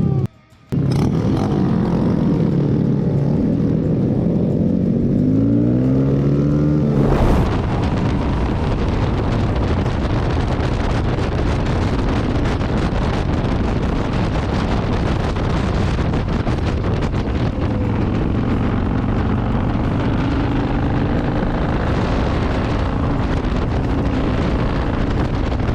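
Motorcycle engines revving up, their pitch climbing as the bikes pull away. About seven seconds in this gives way abruptly to the steady sound of riding: wind rushing over the microphone with engine hum beneath.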